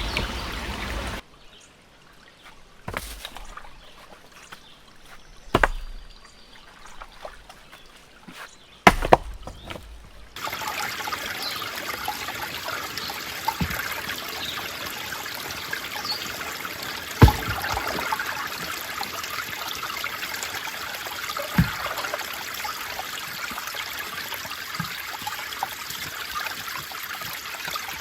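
Creek water trickling and running steadily. A quieter stretch in the first third is broken by several sharp knocks, and a few more knocks come later.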